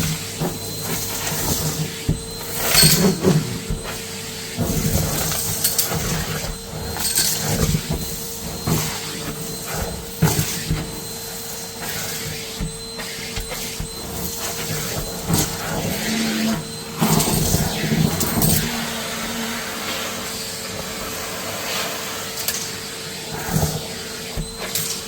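Numatic Hetty cylinder vacuum cleaner running with a steady motor hum and whine. Irregular louder crackles and knocks break in as it picks up dirt and lint.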